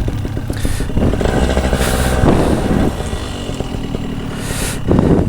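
A running engine with a steady low hum, its pitch shifting slightly between about one and three seconds in, and a short louder burst near the end.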